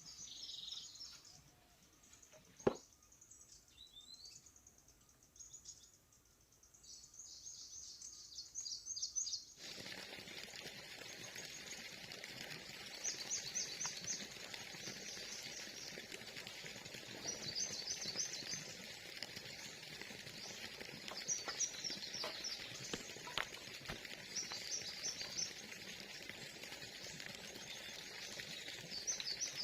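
Small birds chirping in short, high repeated trills every few seconds over a steady outdoor hiss that starts abruptly about a third of the way in. A single sharp knock comes before it.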